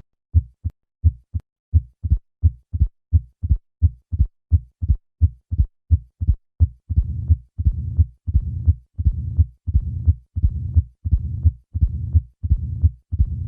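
Heart sounds at about 85 beats a minute, played as crisp low thuds, about three a second. From about seven seconds in, the low-pitched rumbling murmur of mitral stenosis follows each beat. At this rate the diastolic murmur is easy to mistake for a systolic one.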